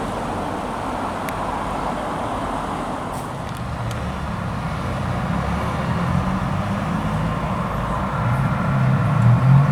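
Road traffic passing, with a steady rush of tyre and road noise. A vehicle's low engine note builds over the second half and is loudest near the end as it comes closer.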